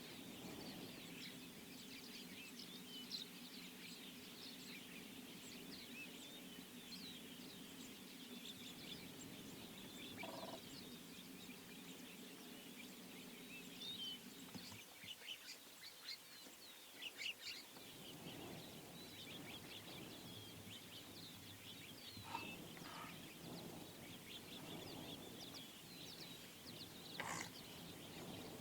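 Faint chorus of many small birds chirping, over a low steady hum that drops out about halfway through and returns a few seconds later.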